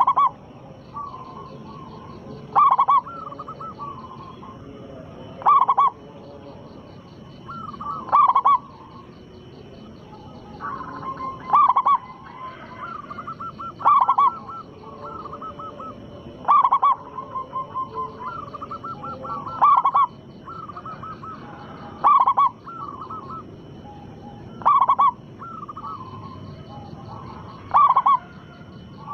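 Zebra dove (perkutut) cooing over and over, a loud call about every two and a half to three seconds with softer trilling coos between, sung as a lure to make other zebra doves answer.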